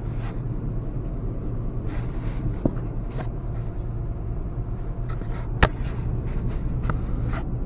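Steady low rumble of a fifth-generation Toyota 4Runner's 4.0-litre V6 idling at a standstill, heard from inside the cabin. Scattered light clicks and one sharp tap come about five and a half seconds in.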